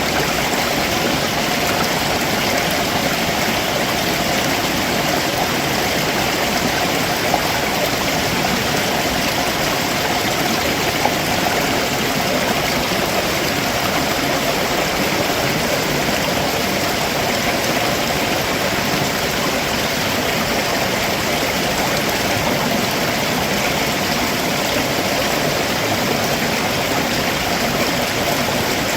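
A rocky stream below a waterfall, its water rushing and splashing over stones in a steady, unbroken wash.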